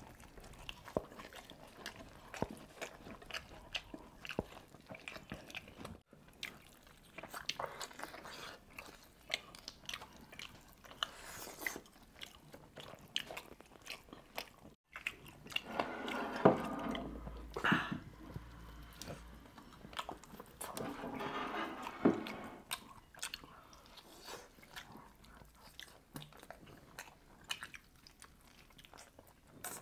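Close-up eating sounds of roast chicken eaten by hand: biting, chewing and wet mouth clicks with occasional crunches. Louder, denser stretches of chewing come about halfway through and again a few seconds later.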